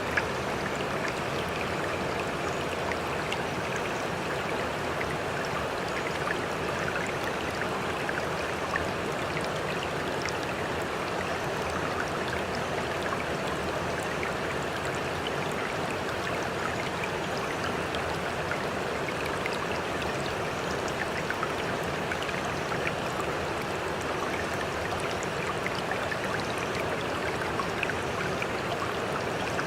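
Sea water trickling and lapping, steady and unchanging.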